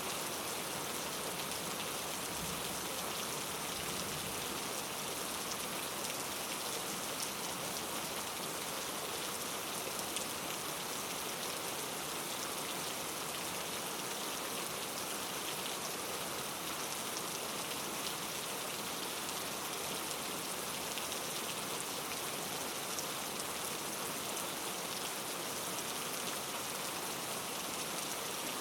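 Steady rain falling, with fine drop patter on a surface.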